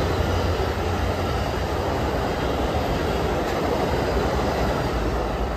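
A train rolling past on the tracks: a steady noise of its wheels on the rails, beginning to fade near the end.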